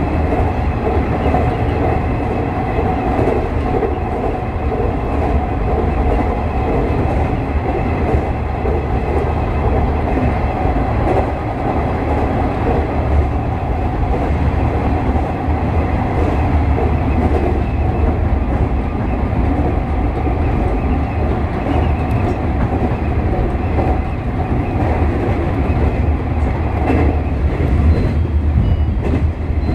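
JR East 201 series electric train running at speed, heard from the driving cab: a steady deep rumble of wheels on rail with a few light joint clicks, and wind rushing at the cab window.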